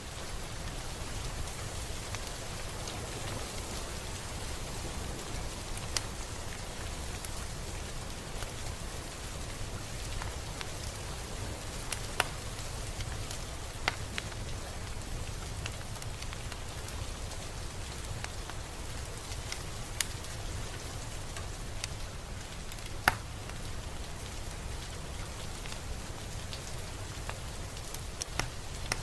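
Steady rain falling, an even hiss with a low rumble beneath it. Now and then a single close drop lands with a sharp tick, the loudest of them about three-quarters of the way through.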